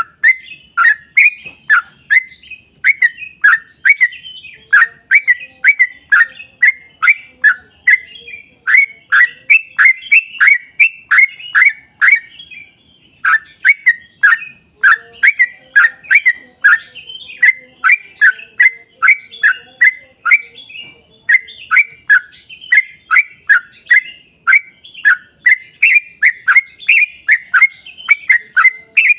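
Yellow-vented bulbul (trucukan) calling in a long, fast run of short notes, each dropping in pitch, about two or three a second, with one brief pause about twelve seconds in.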